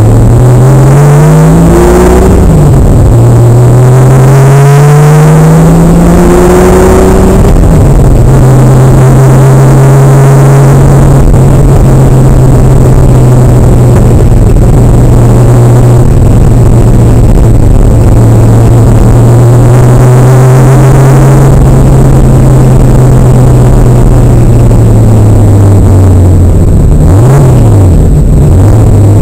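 Porsche 911 Turbo's 3.4-litre flat-six engine heard from inside the cabin, very loud. It pulls up through the revs twice in the first seven seconds, dropping at a gear change between. It then holds a steady cruise, with a quick dip and rise at another gear change near the end.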